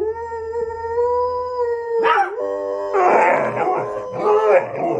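Dog howling: one long steady howl of about two seconds, then a rougher, wavering howl that stops at the end.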